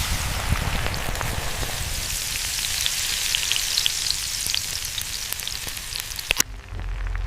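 Food frying on high heat: a dense sizzle with many small crackling pops of spattering fat, which cuts off suddenly about six seconds in.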